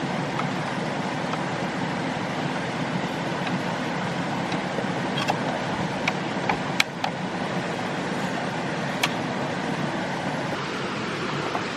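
Steady rushing noise, with a few sharp clicks or knocks between about five and nine seconds in.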